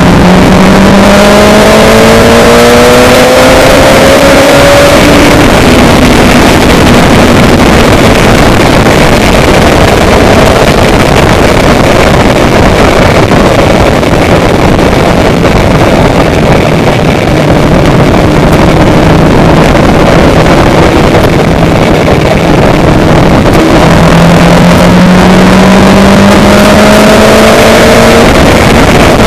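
A vehicle engine under heavy wind and road rush. It speeds up, rising in pitch, over the first few seconds, holds a steady speed, then speeds up again near the end.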